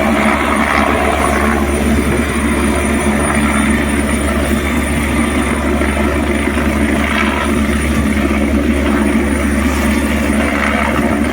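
Helicopter running loud and steady close by, its rotor noise filling the low end, with a thin high whine that dips slightly near the end.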